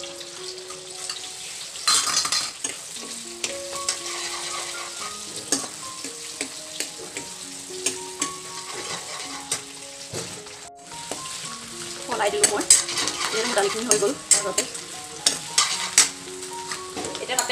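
Onions and red chillies sizzling in hot oil in a black iron kadai, with a steel spoon scraping and clicking against the pan as they are stirred. The stirring is busiest and loudest in the last few seconds.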